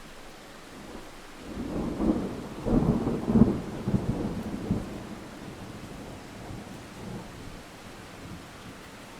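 Steady rain falling, with a roll of thunder that builds about a second and a half in, peaks around three seconds and fades away by about five seconds.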